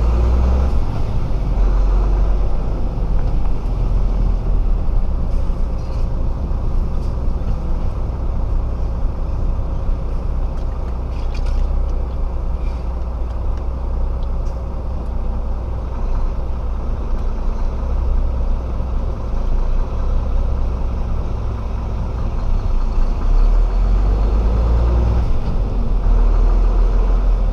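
Diesel engine of a 26-tonne Renault rigid truck running steadily at low speed with a deep rumble, growing heavier again over the last few seconds.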